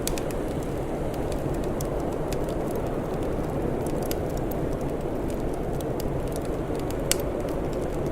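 Wood fire crackling, with scattered small pops and one sharp louder pop about seven seconds in, over a steady low rumble.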